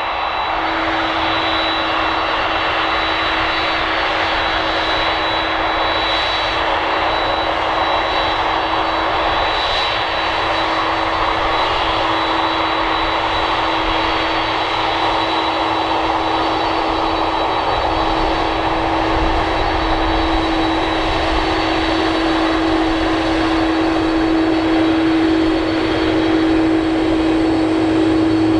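Boeing 747-400F jet engines running: a broad, steady rush with a steady humming tone and a high whine above it, slowly growing louder toward the end.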